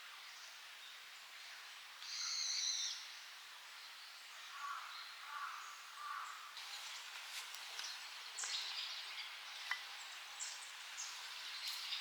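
Wild birds calling in a quiet forest: a short high call about two seconds in, then three short lower notes a little later. From about halfway on, light scattered ticks and crackles.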